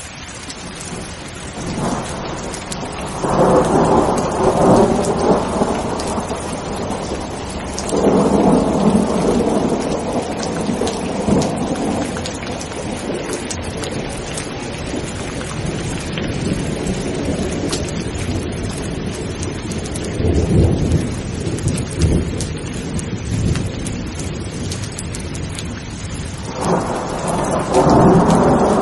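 Steady rain with rolling thunder. Four rumbles come and go: one about two seconds in, one around eight seconds, a lower, deeper one past the twenty-second mark, and another building near the end.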